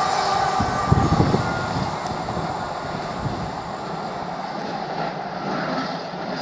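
Train passing at speed and pulling away, wheels clattering over the rails about a second in, then its rumble fading steadily.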